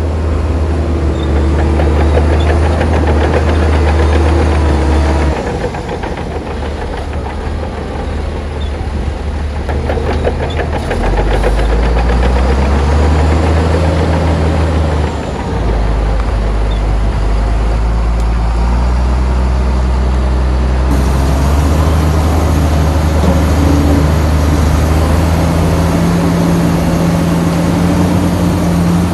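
Bulldozer's heavy diesel engine running under changing load, its note dropping and rising several times, quieter for a few seconds about a fifth of the way in.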